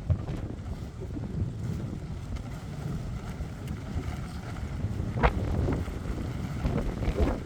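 Strong gusting wind buffeting the microphone, a dense low rumble throughout, with two short sharper noises about five and seven seconds in.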